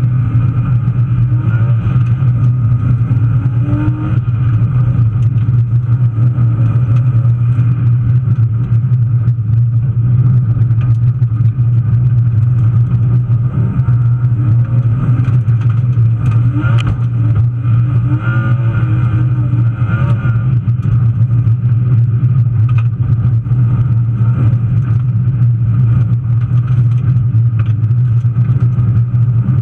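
BMW 325i straight-six engine pulling hard at rally pace, heard from inside the cabin, its revs rising and falling through the corners, with scattered knocks and clicks over a steady low drone.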